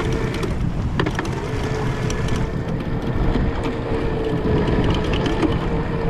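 Boat motor running steadily with a thin steady whine, wind rumbling on the microphone, and a couple of sharp clicks about a second in.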